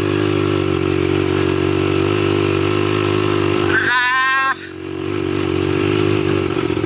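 ATV engine running steadily under throttle. It eases off briefly about two-thirds of the way through, then picks up again. A person shouts once just before the dip.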